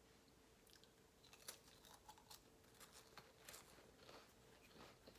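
Faint, irregular crunches and clicks of someone eating crackers with shredded cheese.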